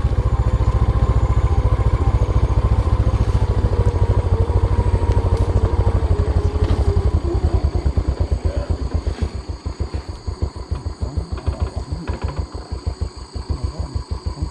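Small motorcycle engine running steadily, then dropping back to a slow, uneven idle about two-thirds of the way through, its firing pulses spacing out and growing quieter.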